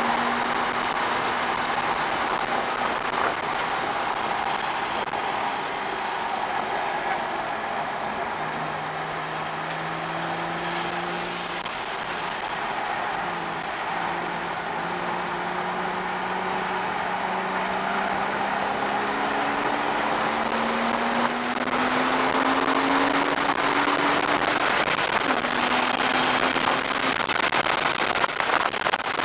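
Porsche Cayman S 3.4-litre flat-six engine heard from inside the cabin under hard track driving. Its pitch climbs slowly and drops suddenly at upshifts, over steady wind and tyre noise. It gets louder about three quarters of the way through.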